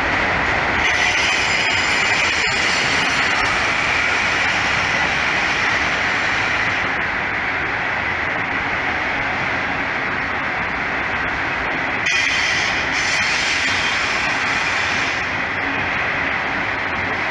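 Freight train of autorack cars rolling past, a steady noise of steel wheels on rail with a high hiss over it.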